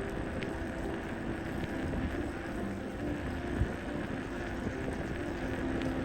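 Wind rumbling on the microphone of a rider on a moving folding bicycle, with faint background music under it.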